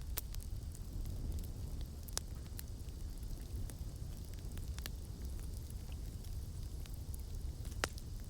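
Campfire crackling: a steady low rumble of flames with scattered sharp pops and snaps of burning wood, a few louder pops among them, about four in all.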